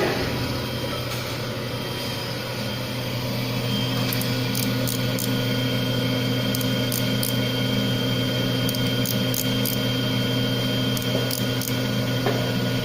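Small CNC cylindrical grinder running with a steady motor hum. About four seconds in, a high steady whine joins it, along with short high hissing strokes that come and go, typical of the grinding wheel working the outside diameter of a small part.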